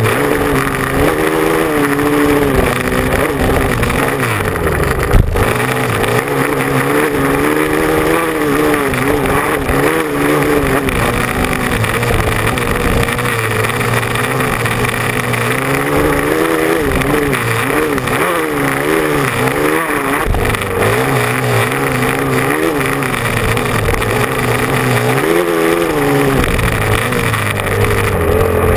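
Motocross bike engine revving up and falling back again and again as it rides, the pitch constantly rising and dropping, with one sharp knock about five seconds in.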